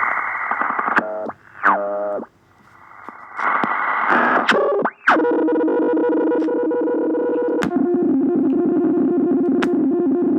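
Experimental electronic sound-art collage: bands of radio-like hiss, quick gliding pitch sweeps, then a held drone of several steady electronic tones that cuts off suddenly at the end.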